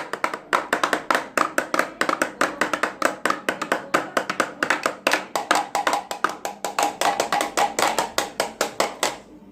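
Rapid, steady tapping at about six knocks a second, a child hammering or working toy tools against a toy motorcycle as mock repair work. It stops shortly before the end.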